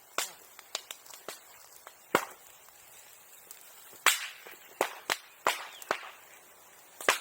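Bonfire burning old wooden sericulture tools, popping and cracking: about ten sharp cracks at irregular intervals, the loudest about two and four seconds in.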